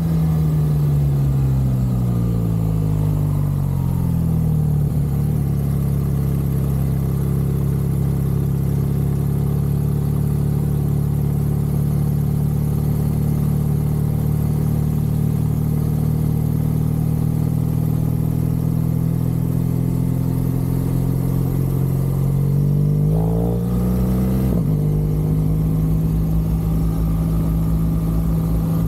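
BMW R1200 GSA's flat-twin boxer engine pulling the bike along the road. The revs fall away over the first five seconds, then hold steady. About 23 seconds in they climb briefly and drop sharply, then settle into a steady run again.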